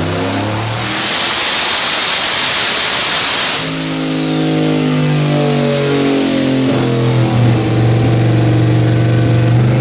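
Turbocharged 6.0-litre LS V8 at full throttle on a chassis dyno, the big S484 turbo's whistle climbing in pitch and then holding high over the engine for about three seconds. About three and a half seconds in, the throttle closes: the turbo whine falls away and the engine drops to a lower, steadier drone. Near the end a rising turbo whine starts again as the engine is pushed once more.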